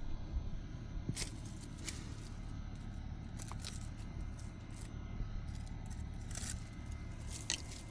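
Hand weeding and clearing of overgrown plants: scattered short scrapes and crackles of stems and brush being handled, over a steady low rumble.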